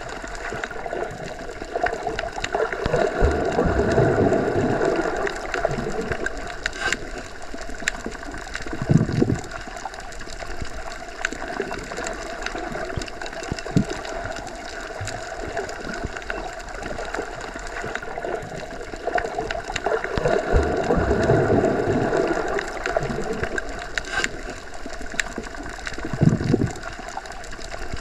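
Underwater ambience: a steady rushing, gurgling water noise that swells twice. Short low surges come about nine seconds in and again near the end.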